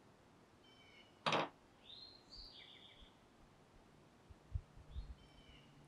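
Birds chirping faintly in short calls, with one sharp knock about a second in and a few soft low thuds near the end as the hands work the clay mug on the board.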